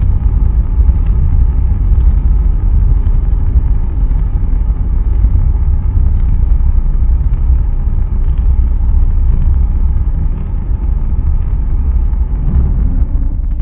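Blue Origin BE-3U liquid-hydrogen/liquid-oxygen rocket engine firing in a hotfire test: a loud, steady rumble that eases slightly in the last second or so.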